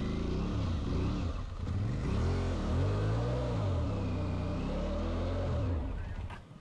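Dual-sport motorcycle engine revving up and down several times under load as the rider tries to power the dug-in bike free. The sound cuts off sharply just before the end.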